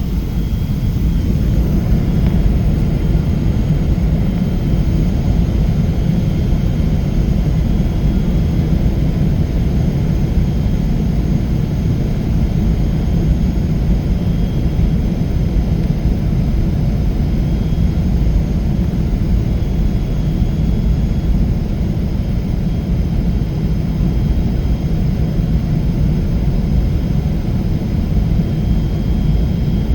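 Steady low rumble of jet engine and airflow noise inside the cabin of a Boeing 777-300.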